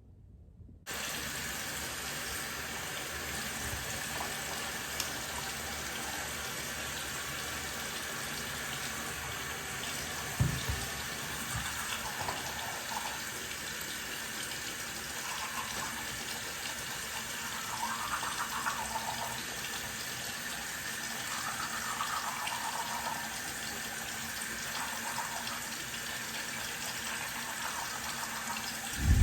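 Steady rush of running water, an even hiss that cuts in abruptly about a second in, with a single soft low thump about ten seconds in.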